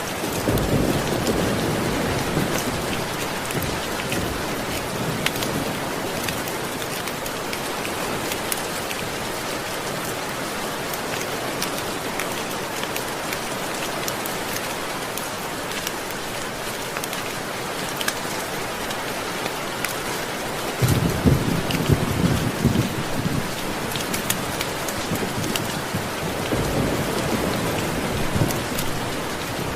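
Steady rain, with low rolls of thunder near the start, about two-thirds of the way through, and again near the end. Scattered sharp clicks sound over the rain.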